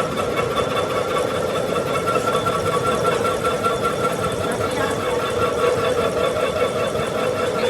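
A workshop machine running steadily, a constant hum under a fast, even mechanical chatter.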